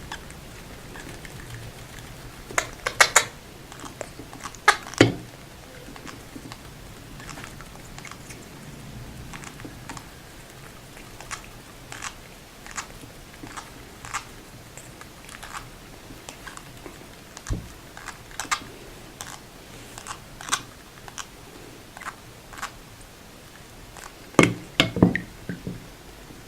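Irregular sharp clicks and crunchy taps, some in quick clusters, loudest around three seconds in, at five seconds and near the end.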